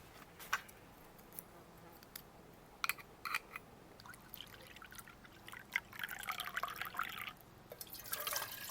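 Liquid being poured into a container, in two short pours about six and eight seconds in, after a few scattered light clicks and knocks.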